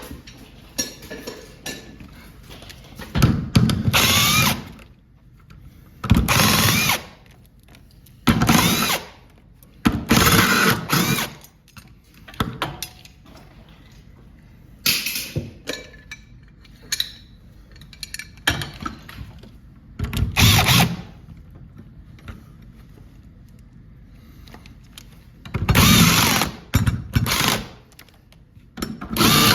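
Power drill driving screws into a garage door hinge, running in about ten short bursts of roughly a second each with pauses between them.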